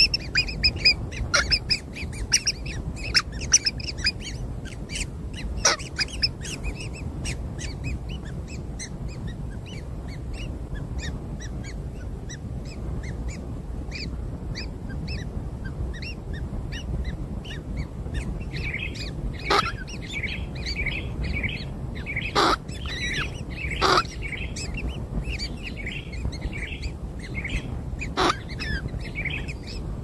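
Birds chirping: many short, high calls in quick succession over a steady low rumble, with a few sharp clicks in the second half.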